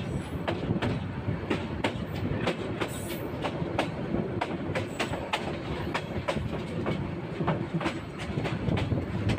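Intercity passenger train running on meter-gauge track, its wheels clicking over the rail joints about three times a second in a slightly uneven rhythm over a steady rumble, heard from an open carriage window.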